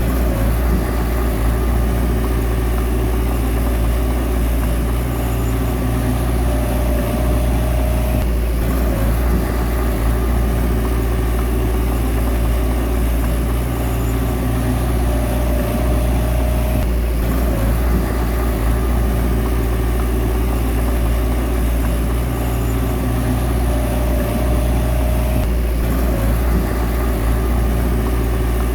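Bulldozer diesel engine running steadily. A high-pitched whine comes in and breaks off abruptly about every eight or nine seconds.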